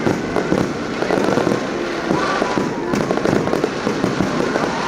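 Fireworks going off in a rapid, unbroken barrage of bangs and pops, with no break between them.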